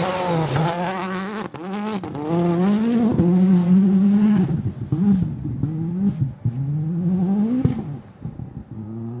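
Rally car engine being driven hard on a stage, revving up and dropping back again and again as the driver shifts gears and lifts, with a sharp crack about one and a half seconds in.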